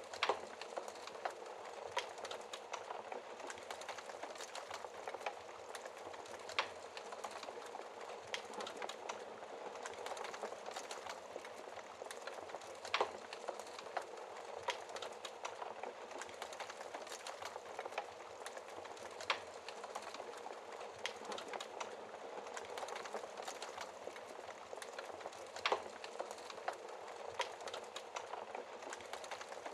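Wood fire crackling in a fireplace: a steady soft hiss of burning with many small crackles and a louder pop every six or seven seconds.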